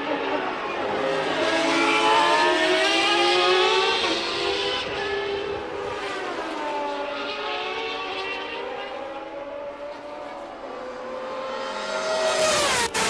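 1989 Formula One car running a naturally aspirated 3.5-litre racing engine at high revs. Its pitch climbs over the first few seconds, drops around six seconds in, and climbs again near the end, cut off suddenly just before the end.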